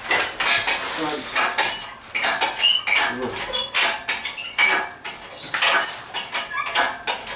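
Irregular metallic clinking and rattling, metal parts knocking together over and over, with low voices underneath.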